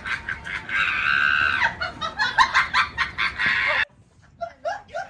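A loud, rapid run of short animal calls with one longer held call about a second in, cut off abruptly near the end, followed by a few faint short calls.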